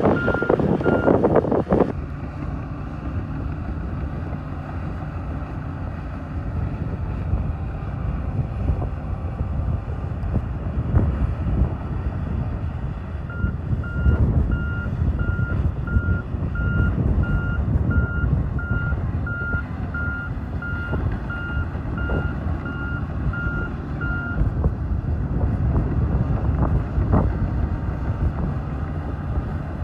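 Bulldozer's diesel engine running under load with a low, swelling rumble, and its backup alarm beeping steadily while it reverses: briefly at the start, then again for about eleven seconds from about halfway, roughly one and a half beeps a second.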